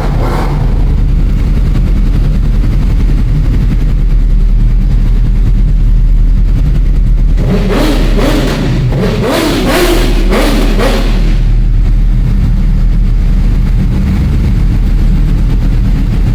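Motorcycle engine running steadily, with a few seconds of louder revving from about eight seconds in.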